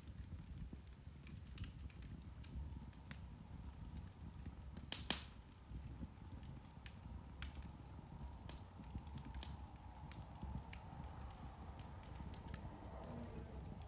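Turf (peat) fire crackling: scattered small pops and ticks over a low, steady rumble, with two sharper pops close together about five seconds in.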